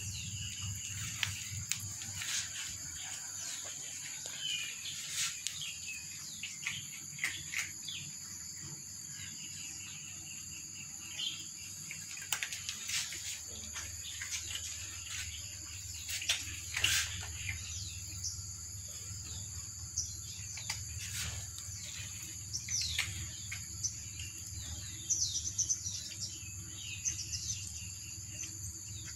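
Small birds chirping in short, repeated calls over a steady high insect drone.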